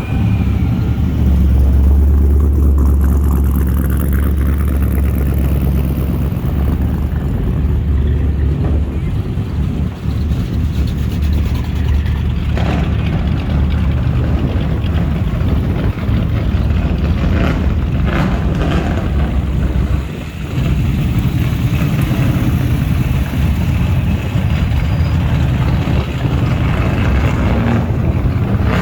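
Car engine running with a steady deep rumble, dropping off briefly about two-thirds of the way through.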